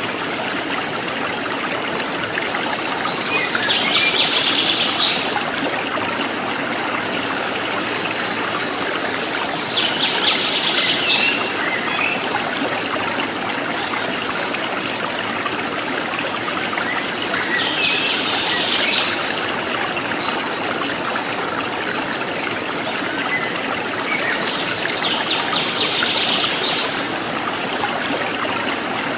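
Forest stream trickling steadily. A wild bird repeats the same call four times, about every seven seconds: a thin held whistle followed by a short rapid trill.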